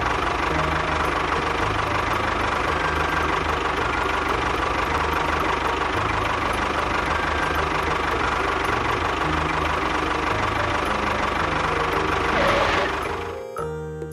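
Tractor engine running steadily with a knocking chug, cutting off abruptly about a second before the end.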